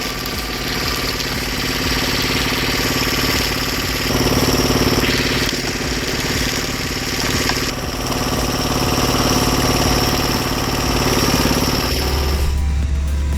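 Engine of a large hydraulic log splitter running steadily, its sound shifting abruptly a few times. About twelve seconds in it gives way to a deep low hum.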